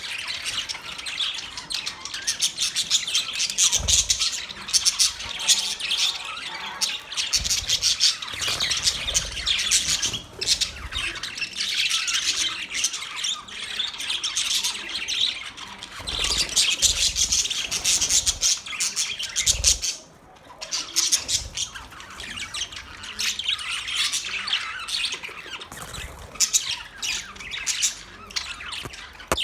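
Several budgerigars chattering continuously, a dense mix of high chirps, warbles and squawks, easing briefly about two-thirds of the way through. A few low thumps sound under the chatter.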